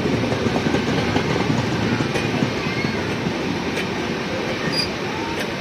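Passenger train running on the rails: a steady, dense rumble of wheels on track, with faint wheel squeals now and then.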